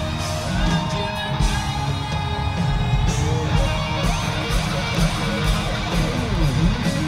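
Live hard rock band playing: distorted electric guitars over bass and drums, with singing. Near the end one note dips and rises again in pitch.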